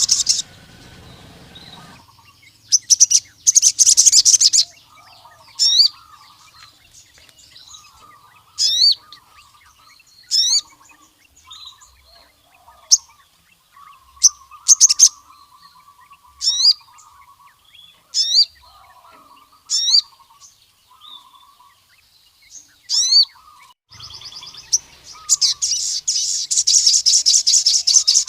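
Male ruby-cheeked sunbird (sogon) singing. It opens with a fast, dense, high trill, then gives sharp rising chirps every second or two, and breaks into another long fast trill near the end. A fainter, lower warbling runs underneath throughout.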